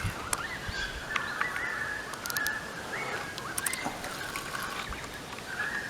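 Fishing reel being wound while playing a hooked carp: a steady high whine that steps up in pitch several times and holds, with faint clicks.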